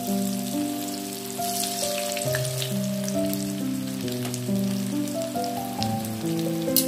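Oil sizzling and crackling as coated pieces shallow-fry in a frying pan, with scattered sharp pops. Background music with held notes plays over it.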